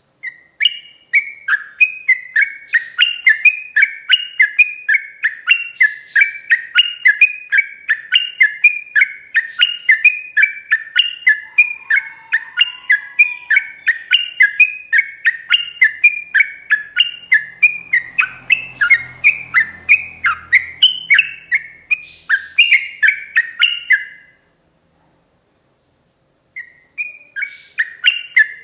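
Yellow-vented bulbul (trucukan) in full song: a long unbroken run of rapid, clear notes, about three or four a second, stepping up and down in pitch. It breaks off for about two seconds near the end, then starts again.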